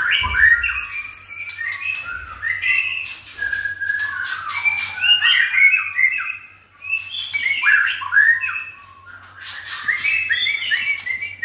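White-rumped shama (murai batu) singing a fast, varied song of whistled and chattering phrases, with brief breaks about six and a half and nine seconds in.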